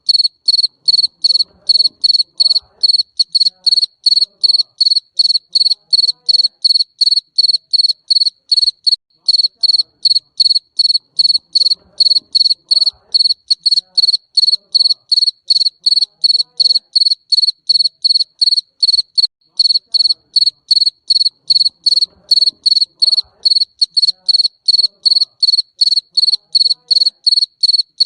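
A garden cricket chirping steadily, about three short high-pitched chirps a second.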